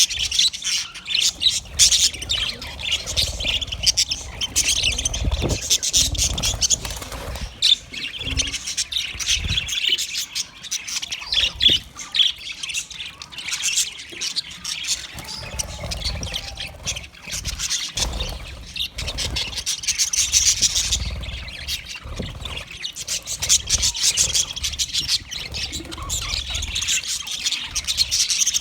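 Budgerigars chattering and chirping without pause, a dense mix of quick chirps, warbles and squawks, with intermittent low rumbles underneath.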